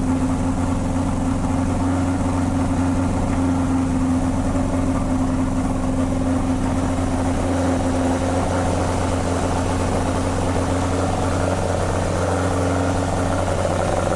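Toyota 20-valve (5-valve) 4A-G four-cylinder engine idling steadily, heard through a current-model 86/BRZ muffler.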